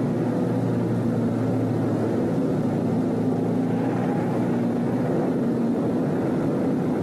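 Car engine running steadily at a constant speed, heard from inside the cabin, a low drone with road noise.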